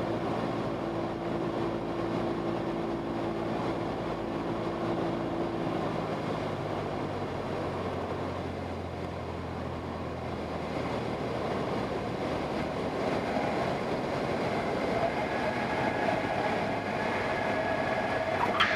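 Cabin noise of a Cessna 172S on short final: the Lycoming four-cylinder engine running at low power under the rush of air, its note dropping away about six seconds in as power comes back. A thin high tone joins in over the last few seconds.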